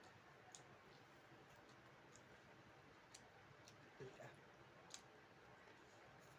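Near silence broken by a few faint, sharp mouth and eating clicks of someone chewing food, about five in all, with a slightly fuller pair just after the middle.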